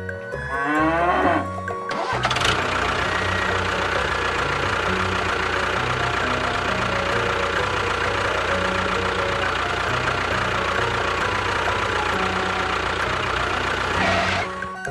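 A cow-like moo in the first second and a half, then a steady mechanical running noise lasting about twelve seconds over background music.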